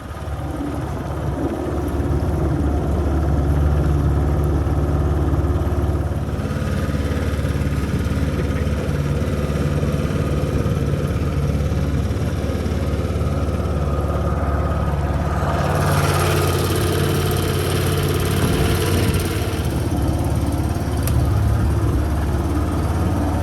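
Boat motor running steadily. About two thirds of the way through, a stretch of rushing noise rises over it and then falls away again.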